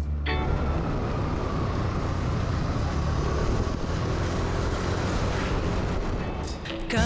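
Steady rushing vehicle noise, a broad even hiss and rumble with a faint tone that slowly falls in pitch early on.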